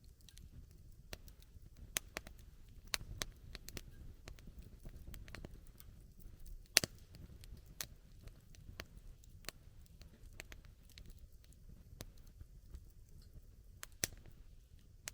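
Wood campfire burning, with irregular sharp crackles and pops over a low rumble of the flames; the loudest pops come about seven seconds in and near the end.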